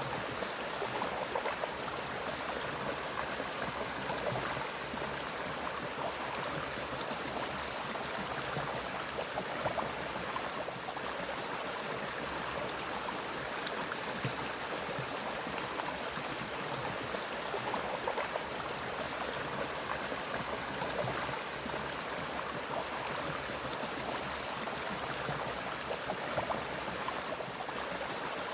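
Mountain stream flowing steadily through forest, a constant rushing of water, with a steady high-pitched whine above it.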